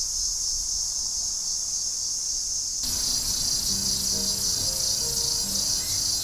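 Platypleura hilpa cicada calling in a continuous high buzz, which turns fuller and brighter about three seconds in.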